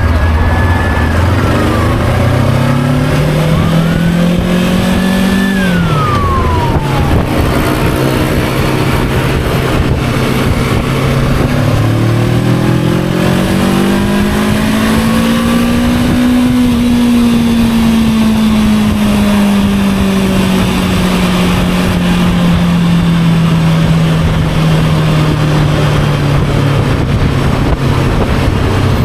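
Motorcycle engine under way, its pitch rising as it accelerates for about five seconds, then dropping off sharply, then climbing again and slowly easing down, with steady wind rushing over the microphone.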